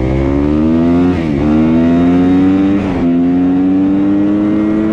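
Off-road vehicle engine accelerating up through the gears: its pitch rises, drops sharply at a shift about a second in and again about three seconds in, then climbs slowly and holds steady under load.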